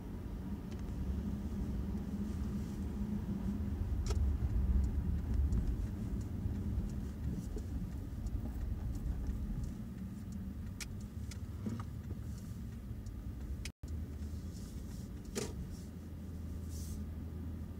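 Steady low rumble of a road vehicle on the move, swelling a little a few seconds in, with a few faint clicks.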